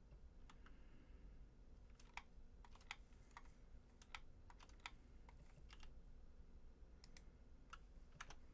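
Computer keyboard being typed on: faint, irregular key clicks in short runs, over a low steady hum.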